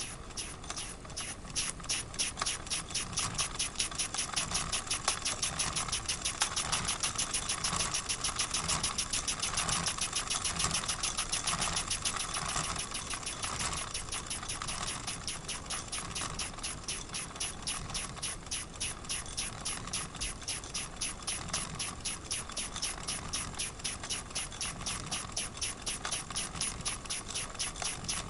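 Wilesco model steam engine running steadily, its cylinder giving an even, rapid chuff-chuff of exhaust puffs with a hiss of escaping steam. The engine is leaking steam from a hole in the steam chest left by a missing screw on the underside of the cylinder.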